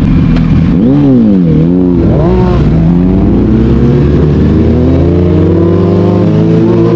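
Suzuki sportbike engine revving up and down a few times, then pulling hard with a long, steady rise in pitch as the motorcycle accelerates.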